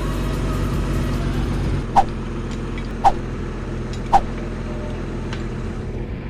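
A crane's engine running steadily while it lifts a small fishing boat ashore, with three sharp knocks about a second apart.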